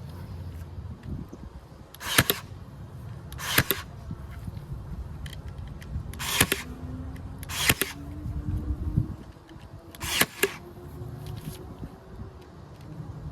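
Hand staple gun driving staples: about five or six sharp snaps, a second or more apart, one of them doubled, over a low background rumble.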